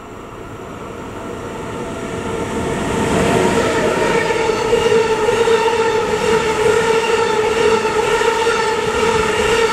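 Electric-hauled container freight train approaching and passing close by, its wheels rumbling over the rails. The sound grows louder over the first three seconds as the locomotive draws level, then stays loud and steady as the container wagons roll past, with a steady whining tone running through it.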